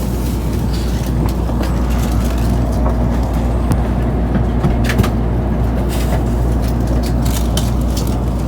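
Tokaido Shinkansen passenger car heard from inside while running: a steady low rumble with scattered sharp clicks and knocks.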